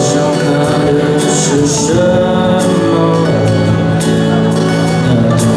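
Live rock band playing: drum kit with cymbal hits keeping a steady beat under guitars, with a male voice singing over it.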